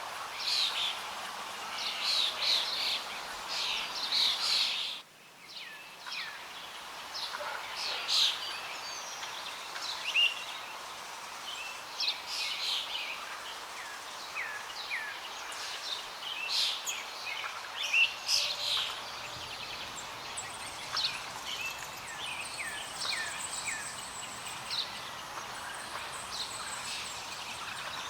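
Several small birds chirping, with many short, quick calls, often falling in pitch, over a background of outdoor noise. The sound briefly drops out about five seconds in, and a thin, steady high note sounds for a few seconds past the middle.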